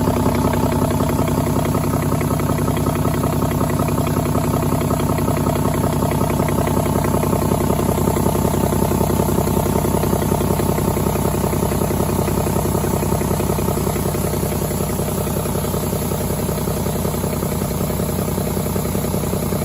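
2009 Cummins ISB 6.7-litre inline-six turbodiesel idling steadily, with an even diesel clatter.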